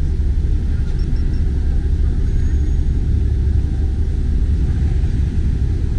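Steady low rumble of a BMW K1300S motorcycle on the move, mostly wind buffeting the microphone at riding speed.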